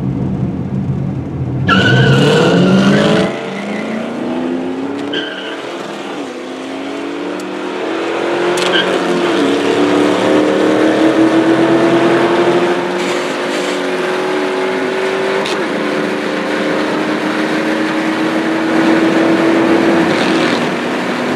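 Cars launching hard from a standstill in a street race, a loud burst of engine and tire noise about two seconds in. Then a car engine accelerating hard, heard from inside a following car, its pitch climbing steadily and dropping back at each of three upshifts.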